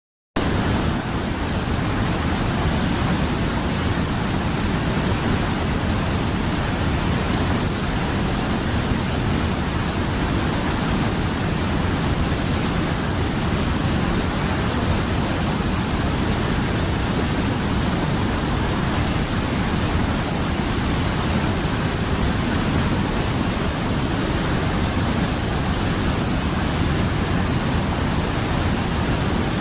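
Mountain river flowing: a steady, dense rush of water, full in the low end.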